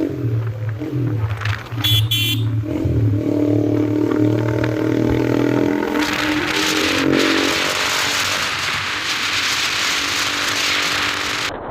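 Yamaha MT-15's single-cylinder engine through a loud Austin Racing aftermarket exhaust, running at a steady low note, then revved higher from about three seconds in, with a loud rasp from about halfway through.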